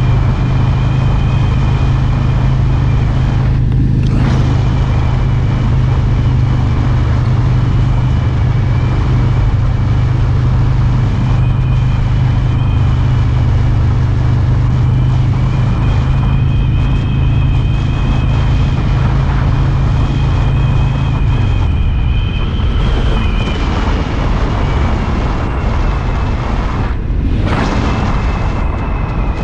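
Harley-Davidson Road King's V-twin engine running steadily at road speed with wind and road noise. About 21 seconds in the engine note drops and loosens as it eases off, and the sound dips briefly about 4 seconds in and again near the end.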